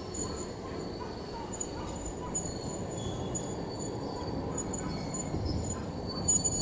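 Kotoden 1080-series electric train coasting slowly into the station: a steady low rumble of wheels on rail. A thin, high brake squeal comes and goes and settles into a steady tone from about four seconds in as the train slows to stop.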